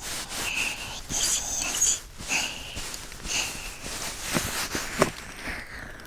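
Soft breathy whispering and breaths very close to a binaural dummy-head microphone, coming in short hissy puffs about once a second.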